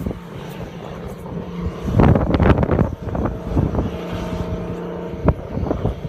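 Car driving in heavy snow, heard from inside the cabin: a steady drone with a low hum, broken by a louder rushing burst about two seconds in, then a few sharp knocks.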